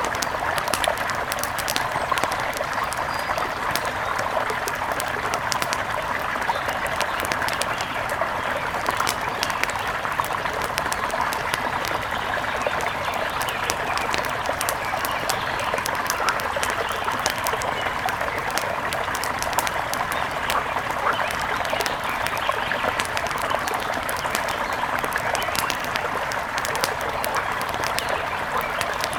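A steady rush of flowing river water, with the frequent sharp pops and crackles of a wood fire burning on top of it.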